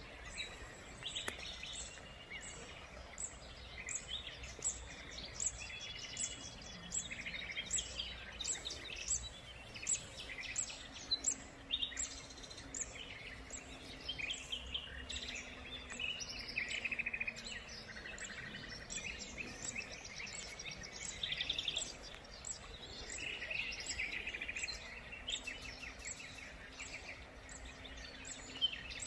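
Small birds chirping and singing, many short calls in quick succession over a steady low background rumble.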